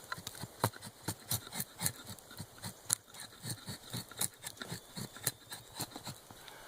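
Wood being cut with a blade in quick, irregular strokes, about three or four a second, each one a sharp click or scrape.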